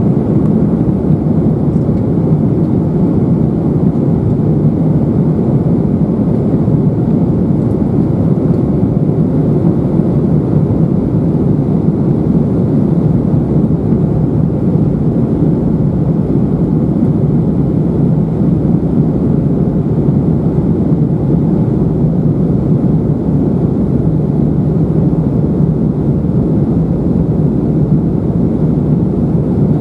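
Steady, even cabin noise inside an Airbus A319-111 in flight: the low drone of its CFM56-5B engines and the airflow over the fuselage, unchanging throughout.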